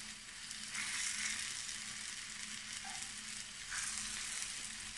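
Cornflour-dusted cubes of firm tofu sizzling in hot oil in a frying pan as they are turned with chopsticks. The hiss is steady and grows louder about a second in and again near four seconds.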